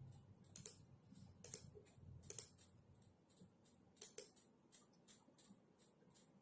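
Faint typing on a computer keyboard: irregular key clicks, several a second, with a few louder strokes.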